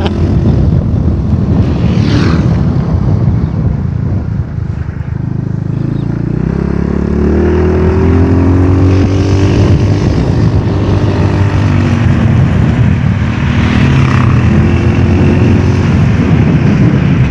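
Motorcycle engine running under way, its pitch rising about six seconds in as it picks up speed and then holding steady, over a heavy low rumble.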